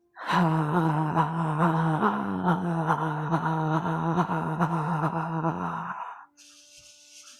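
A woman's voice sounding a long, breathy "haaa" on the exhale: the qigong healing sound for the heart. It is held at one steady pitch for about six seconds and cuts off near the end.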